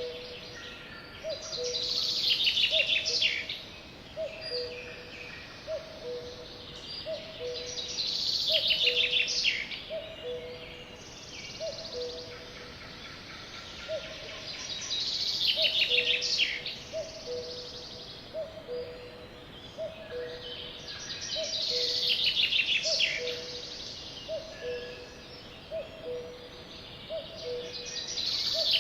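Birds singing: a high trilled song phrase repeats about every six or seven seconds, over a steady low two-note call that repeats about once a second.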